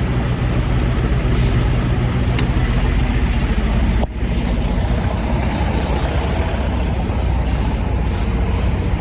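Diesel semi-truck engine idling, a steady low rumble, with a few faint short hisses. The sound drops out briefly about four seconds in.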